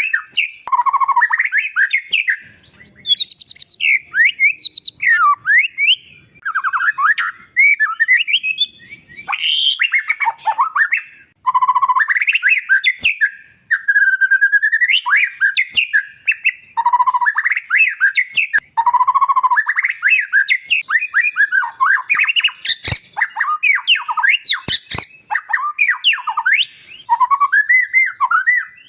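White-rumped shama (murai batu) singing a long, varied song of whistled phrases that glide up and down, mixed with harsh squawky notes, with a few sharp clicks in the last third.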